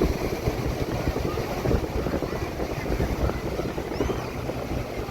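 Wind buffeting the microphone: a gusty, low rumbling noise that flickers in level, with faint high chirps now and then.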